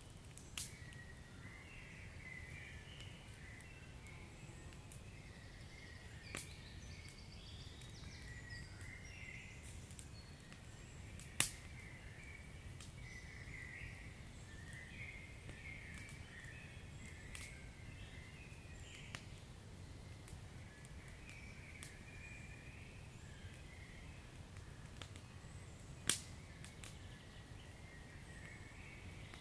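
Wood fire crackling, with a few sharp pops, the loudest about eleven seconds in and near the end, over a low steady rumble and faint high twittering.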